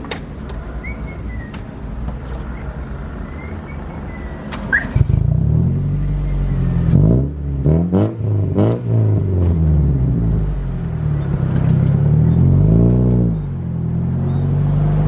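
A Honda K20 four-cylinder race-car engine, a Civic EP3's, fires up about five seconds in over a steady low engine drone. It is blipped three times in quick rising-and-falling revs, runs steadily at a fast idle, and is revved once more near the end.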